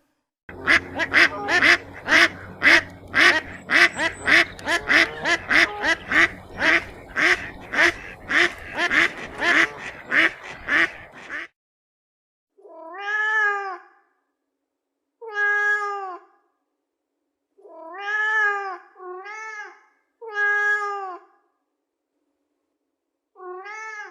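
Cat meowing: about eleven seconds of rapid, overlapping meows, then after a short pause six separate long meows, each rising and then falling in pitch.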